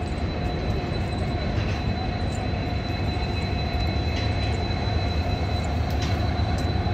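Passenger train rolling slowly along a station platform: a steady rumble of the coaches with a faint, thin, steady whine above it.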